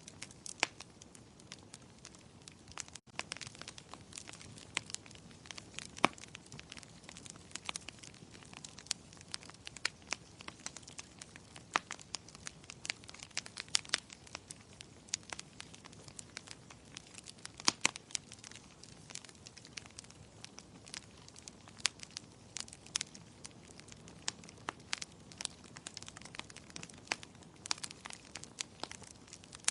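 Fireplace fire crackling: irregular sharp pops and snaps, some much louder than the rest, over a low steady hiss. The sound cuts out for an instant about three seconds in.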